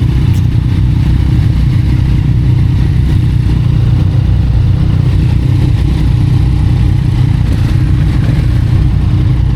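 Yamaha MT-07's parallel-twin engine running at a steady pace through an Akrapovic titanium exhaust, a loud, even low rumble with no revving up or down.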